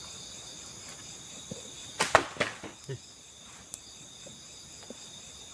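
Night insects, crickets among them, chirring steadily. About two seconds in comes a quick cluster of loud, sharp cracks, followed by a few fainter ones.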